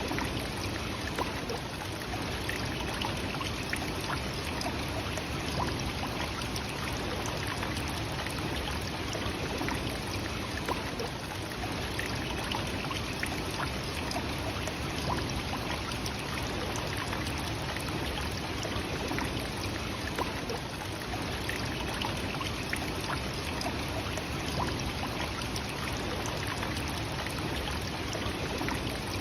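Nachi Falls, a tall single-drop waterfall, with its falling water making a steady, unbroken rushing.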